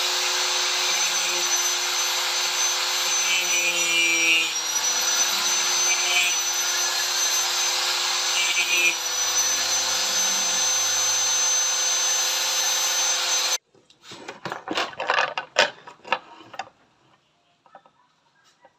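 Electric power tool running steadily with a constant whine, dipping slightly in pitch for a moment as it takes load, then shutting off abruptly after about thirteen seconds. A few knocks follow.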